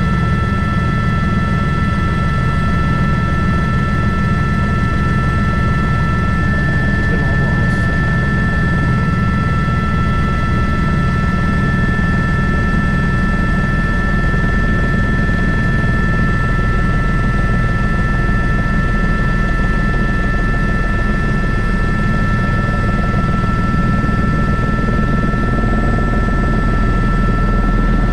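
Airbus H125 (AS350 B3) single-engine helicopter heard in flight from the cockpit: a steady main-rotor beat under a constant high turbine whine, unchanging throughout.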